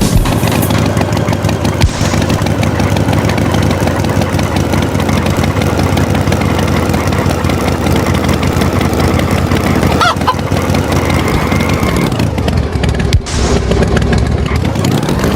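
Cartoon sound effects of a tractor engine running, with chickens clucking over it. Near the end the engine sound dips and then rises again.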